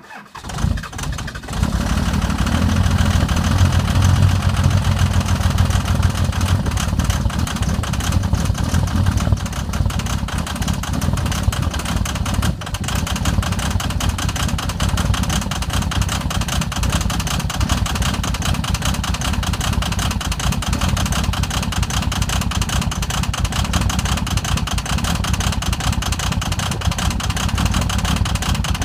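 A 2001 Dodge Ram's 24-valve Cummins 5.9 L inline-six diesel catching and rising to speed over the first second or two, then running steadily with a fast, even diesel clatter. This is a cold start at −35 °C, with the engine not plugged in after sitting for a week.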